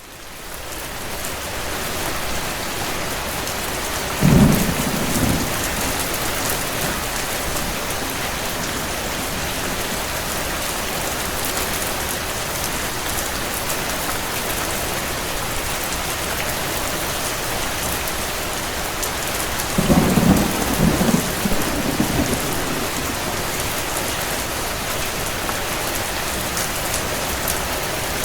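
Steady rain with two rolls of thunder, a short one about four seconds in and a longer one around twenty seconds in. The rain fades in over the first two seconds.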